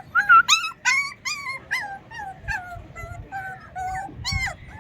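Puppies whining and yelping: a rapid run of short, high-pitched cries, several a second, some overlapping at different pitches.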